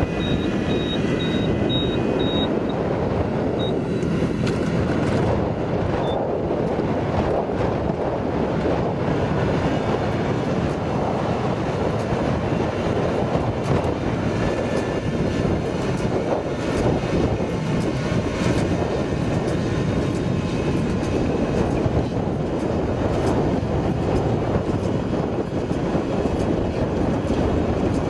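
Tractor engine running hard and steadily under heavy load.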